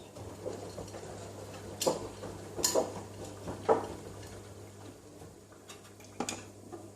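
Front-loading washing machine tumbling wet laundry in its drum: a steady low hum with irregular knocks and clinks, the loudest in the middle.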